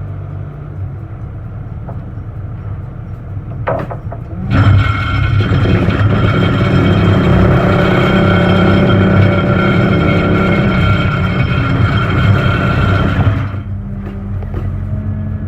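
Engine running at idle, then revved hard about four seconds in and held at high speed for around nine seconds before dropping back to idle near the end.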